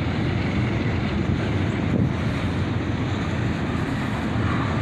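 Autorack freight cars rolling past, a steady low rumble of steel wheels on the rails, with wind buffeting the microphone.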